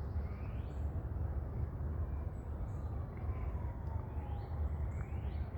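Woodland ambience: a steady low rumble with a few faint bird chirps and, in the middle, a faint falling tone from something in the distance.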